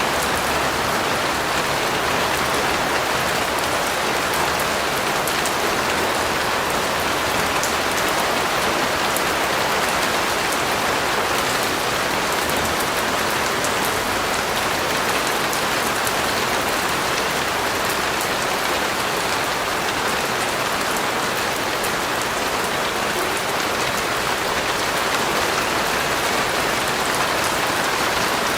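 Steady rain falling, an even hiss with a fine patter of drops, unchanging in level throughout.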